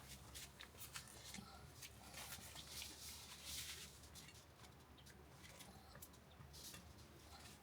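Near silence, with faint scattered clicks and soft rustling.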